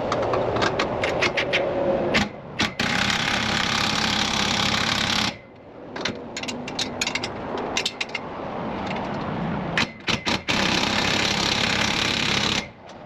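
Power drill running in two long bursts with short trigger pulses and clicks between them, stopping abruptly each time.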